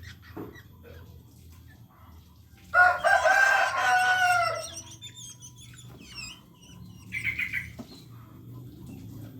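A rooster crows once, about three seconds in, a loud call of about two seconds that drops at the end. Thin high bird chirps follow, then a short rapid run of notes near the end.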